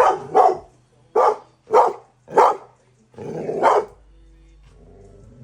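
A pit bull barking on guard after a doorbell: six sharp barks in about four seconds, the last one drawn out, then a pause.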